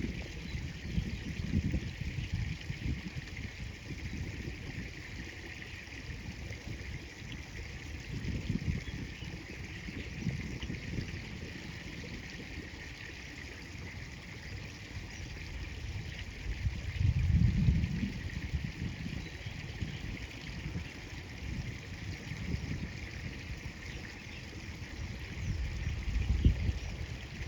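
River water flowing steadily, with low rumbles now and then, loudest about 17 seconds in and again near the end.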